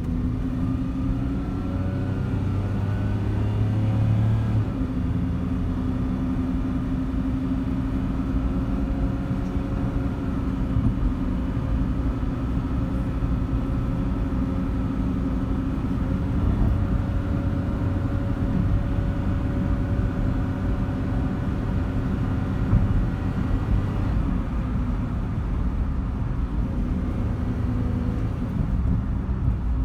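Suzuki Carry DA52T kei truck's 660 cc three-cylinder engine running as the truck drives, with a low road rumble. The engine note rises over the first few seconds as it speeds up, then holds steady.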